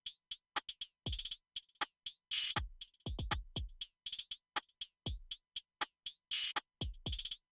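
Programmed drum beat playing from Maschine: deep kicks that drop in pitch, bright snare or clap hits and quick hi-hat ticks, with dead silence between the hits.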